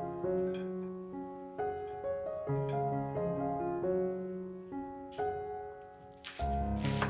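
Gentle solo piano background music, with a deeper bass note coming in near the end. Two short, sharp noises sound near the end as well.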